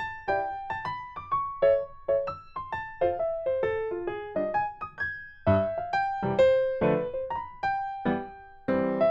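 Background music: a gentle piano or electric-piano melody of separate notes at an easy, even pace.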